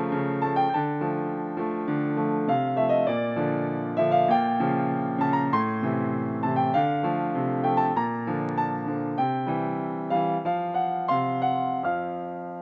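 Solo piano playing a gentle, melodic piece, a cover of a TV drama soundtrack cue, with a melody over chords; near the end it settles on a sustained chord that starts to fade.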